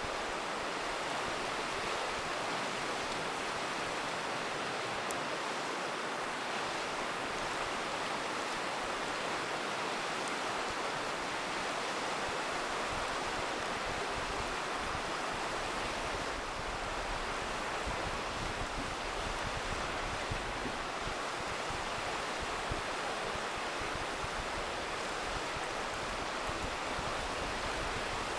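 Steady rushing of a river, with a few faint crackles from a campfire.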